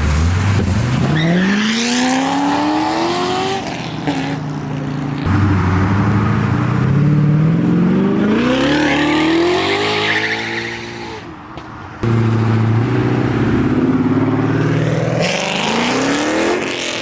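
Modified performance car engines accelerating hard one after another, each revving up in a long rising sweep.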